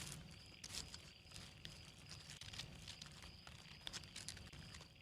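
Near silence: faint ambience with scattered soft ticks and rustles and a faint thin high steady tone.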